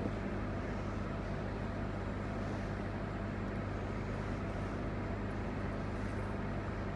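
Steady low electric hum of a standing electric train, an even drone with no change.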